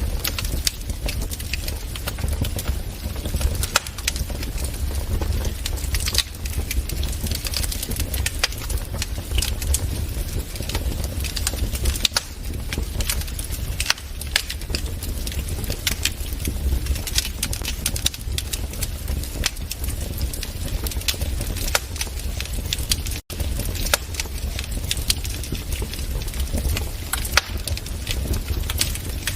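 Wood fire crackling in a fireplace: frequent, irregular sharp pops and snaps over a steady low rumble. The sound cuts out for a split second about three-quarters of the way through.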